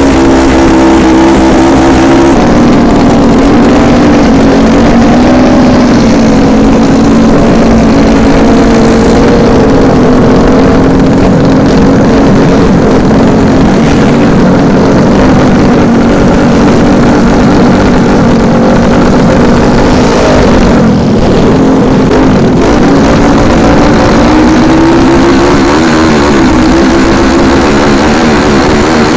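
Motorcycle engine running loud and close at fairly steady revs, its pitch rising and dipping slightly now and then.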